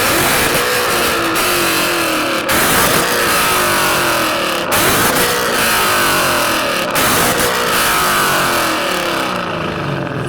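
Ford Mustang V8 revved hard and held at high revs for a decibel reading, broken by short sudden drops about every two seconds.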